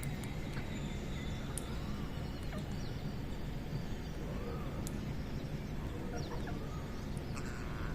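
Scattered short bird calls and chirps, faint and irregular, over a steady low rumble.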